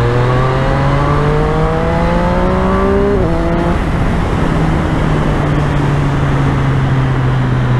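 Triumph Street Triple 765's inline three-cylinder engine accelerating with rising pitch, then an upshift about three seconds in. After that it runs at a steady cruise under wind and road noise.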